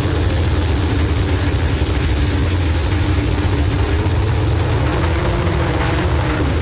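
IndyCar racing engine idling steadily with a deep, even rumble, not being revved.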